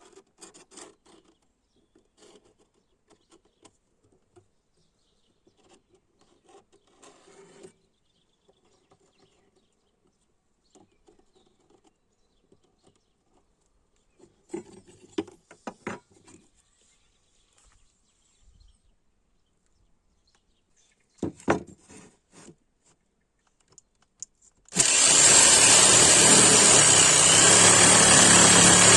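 Quiet, intermittent scraping and knocking of tools and workpiece being handled. About 25 s in, a power tool switches on abruptly and runs loud and steady.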